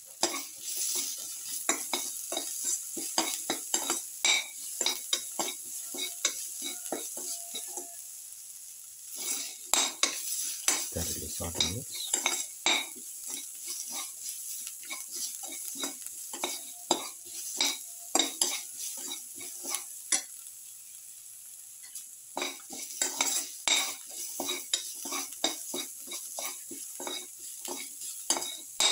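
Garlic cloves and sliced onion frying in hot oil in a steel pan, with a steady sizzle throughout. A utensil stirring them scrapes and clicks against the pan over it. The stirring stops for about two seconds around two-thirds of the way through while the sizzle goes on.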